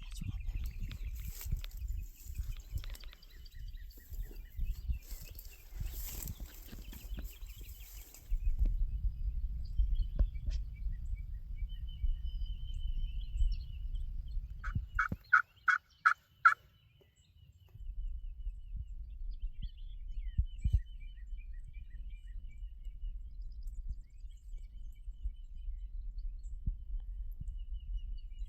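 Wind rumbling on the microphone, with small birds chirping. About fifteen seconds in comes a run of five loud, evenly spaced turkey yelps.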